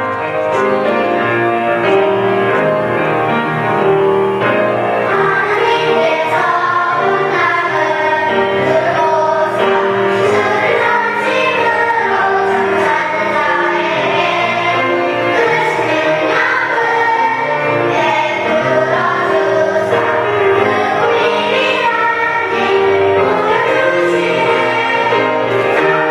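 Church choir singing a worship song over instrumental accompaniment, the voices and sustained chords continuous throughout.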